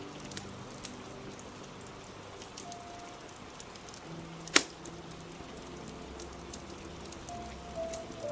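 Steady rain with a crackling fire: scattered small crackles and one loud sharp pop about four and a half seconds in. Soft music with a few held notes plays faintly underneath.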